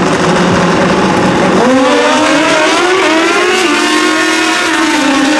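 Pro drag bikes launching and accelerating hard down the track. A loud, rough engine noise gives way about two seconds in to a clear engine note that climbs in pitch, dips briefly near the middle, then holds high.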